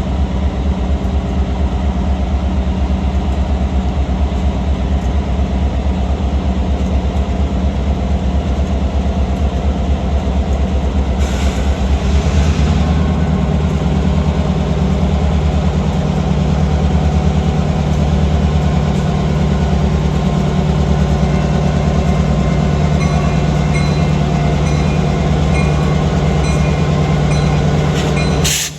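Train going by with its locomotive engine running, a loud steady drone whose note shifts about halfway through. It breaks off briefly near the end.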